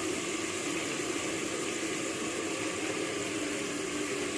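Steady sizzling hiss of flour-coated chicken pieces deep-frying in a full pan of hot oil over a gas flame, the chicken now cooked through.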